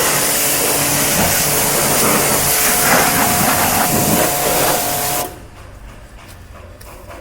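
Pressure washer spraying, a loud steady hiss of the water jet, that cuts off suddenly about five seconds in.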